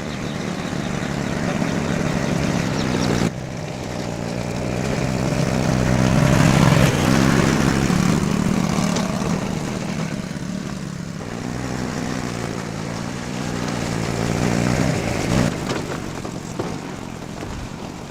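A motor vehicle running continuously. It grows louder to a peak about seven seconds in, then eases off, with a sudden drop about three seconds in.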